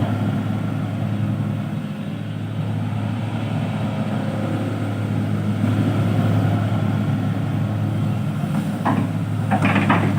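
Heavy vehicle engine running steadily at a low, even drone, with a few short knocks near the end.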